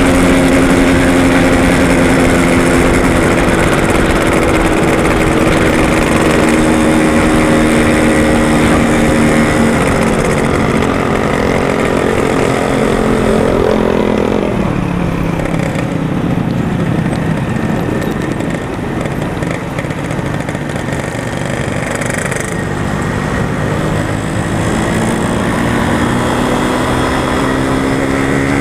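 Yamaha RX-King's two-stroke single-cylinder engine running under way. It holds a steady pitch, drops off as the bike slows around halfway through, then climbs again near the end as it picks up speed.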